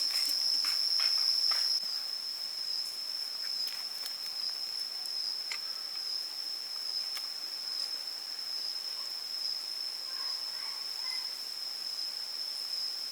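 Insects droning as one steady high-pitched, unbroken tone, with a few sharp clicks in the first couple of seconds.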